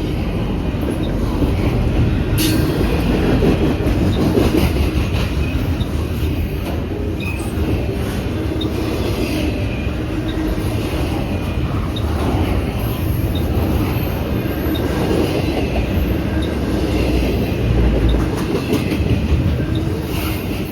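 Steady loud rumble of a moving vehicle, with faint scattered high ticks.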